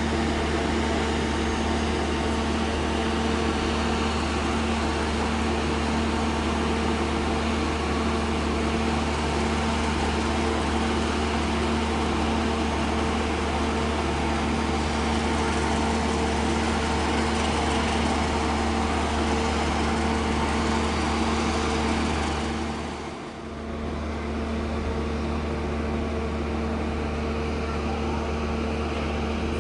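Passenger train running, heard inside the carriage: a steady low hum with a couple of constant tones over an even rushing noise, dipping briefly about 23 seconds in.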